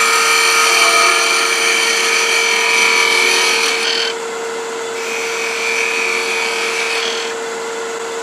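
Wood lathe running with a steady motor hum while a 3/8 inch spindle gouge cuts the spinning wood. There are two cuts, the first about four seconds long and a shorter one about five seconds in.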